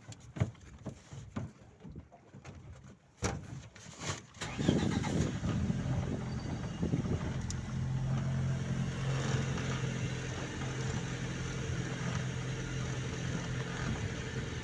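A few scattered knocks, then an engine starts about a third of the way in and runs steadily at an even, low pitch.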